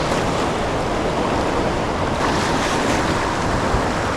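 Steady rushing noise of fast, turbulent tailwater current below a hydroelectric dam, mixed with wind on the microphone.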